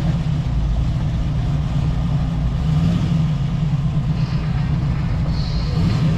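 A car engine running steadily at idle, a loud low rumble.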